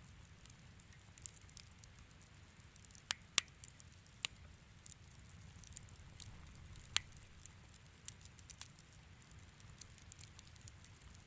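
Wood fire crackling in a fireplace: irregular sharp pops and snaps, a few of them louder, over a low steady rumble of the flames.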